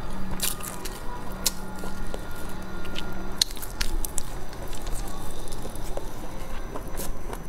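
Close-miked biting and chewing of a flaky filled pastry: soft wet mouth sounds broken by a few sharp crackles of the crisp crust.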